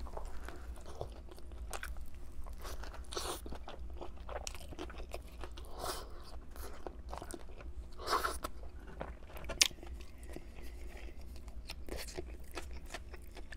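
Close-miked biting, crunching and chewing of a crispy fried chicken sandwich, in irregular mouthfuls. There is a louder crunch about eight seconds in and a sharp click shortly after.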